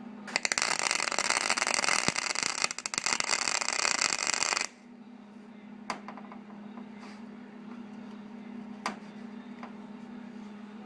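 A wire-feed (MIG) welder's arc crackling steadily for about four seconds as a tack weld is laid on a thin sheet-metal patch, then cutting off sharply. A steady low hum runs underneath, and two sharp clicks come later.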